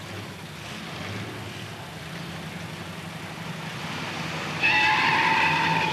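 Drag cars' engines running at low speed in the lanes as a low rumble, then, about two-thirds of the way in, a loud steady high-pitched squeal lasting over a second.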